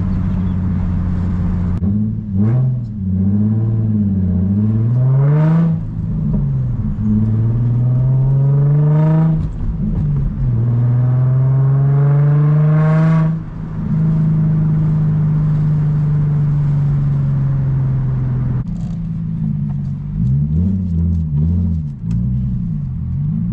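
Infiniti G35's 3.5-litre VQ V6 with muffler and resonator deleted, accelerating through the gears of its 6-speed manual: the exhaust note climbs in pitch, drops at each of three upshifts, then holds steady at cruise. Near the end the revs rise and fall in short swings as the throttle is worked.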